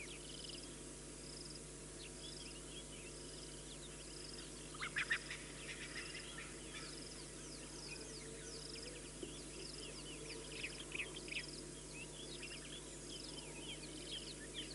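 Wild birds chirping and twittering, with quick high calls that are loudest about five seconds in and again around ten to eleven seconds, over a short high note repeating about once a second. A faint steady low hum runs underneath.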